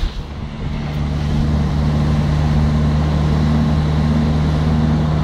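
Land Rover engine running steadily while driving on a beach, heard from inside the cab: an even, low drone that builds over the first second or so, then holds steady.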